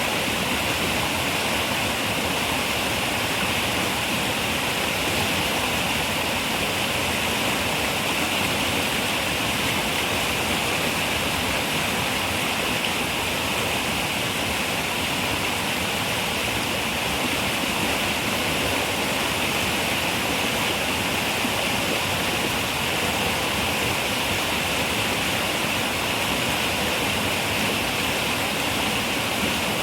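River water running steadily over rocks, a constant rushing with no change in level.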